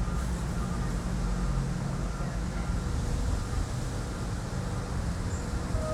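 Steady low hum and rumble of background noise, even throughout, with no distinct event standing out.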